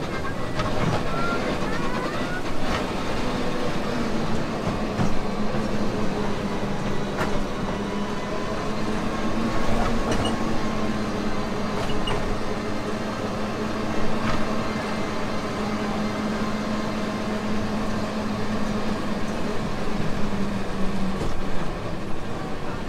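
Small amusement-park train running along its track, heard from one of its open carriages. A steady hum sets in a few seconds in and fades near the end, with scattered clicks and rattles from the cars.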